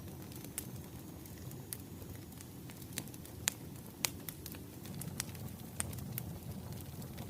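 Wood fire crackling: irregular sharp pops and snaps, a few louder ones around the middle, over a steady low background of the burning logs.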